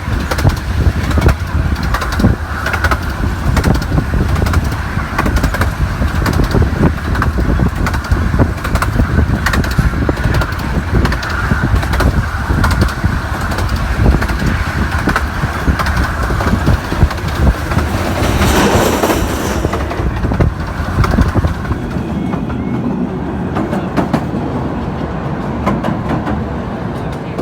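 15-inch gauge miniature railway train running, with a steady rumble and rapid clicking of wheels on the track. A short high-pitched sound breaks in about eighteen seconds in, and the running grows quieter near the end.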